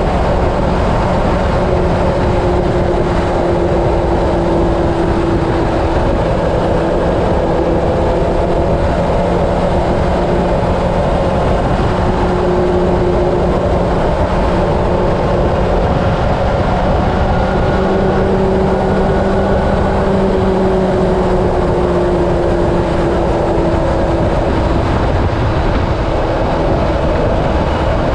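Honda CB750 inline-four engine running at a steady highway cruise under heavy wind rush on the microphone. The engine note holds almost level, drifting slightly up and down.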